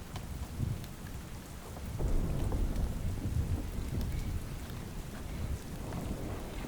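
Steady rain with scattered sharp drop ticks, under a low rumble of thunder that grows louder about two seconds in.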